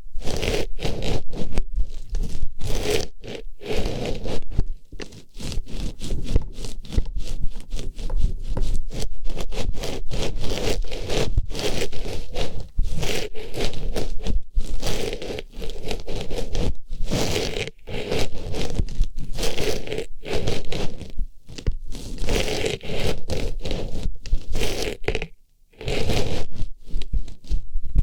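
Artificial flower pushed into and rubbed around a microphone's ear, its petals giving close, dense scraping and rustling strokes in quick irregular succession, with a brief pause near the end.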